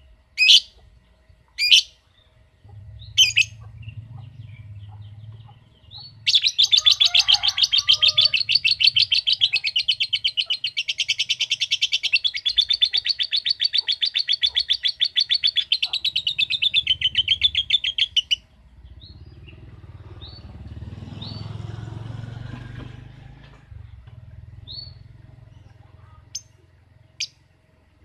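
Lovebird calling: a few short sharp chirps, then a long, rapid chattering trill of evenly repeated notes lasting about twelve seconds. This is the long 'ngekek' chatter that bird keepers prize. After it stops, a low rumble of background noise remains with a few faint chirps.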